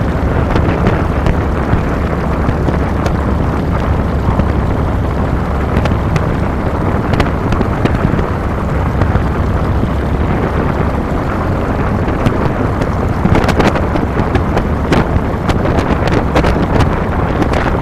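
Harley-Davidson Fat Boy's Twin Cam 96 V-twin engine running steadily under way, with wind buffeting the handlebar-mounted microphone; the wind crackles and gusts more sharply in the last few seconds.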